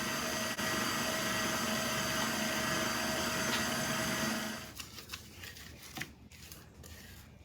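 Stand mixer with paddle attachment running steadily, beating butter, sugar, eggs and extracts together; its motor hum stops about four and a half seconds in. A few faint knocks follow.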